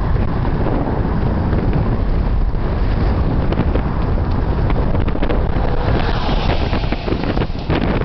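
Strong wind buffeting the microphone in a loud, steady rumble, with road traffic on the bridge underneath; about six seconds in a hiss swells, as of a vehicle passing.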